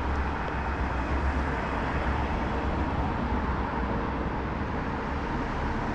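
Steady town-centre traffic noise: an even wash of vehicle sound with a constant low rumble and a faint steady hum.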